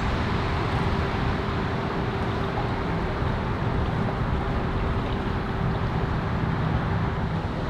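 An engine idling steadily, with a faint steady whine that stops near the end.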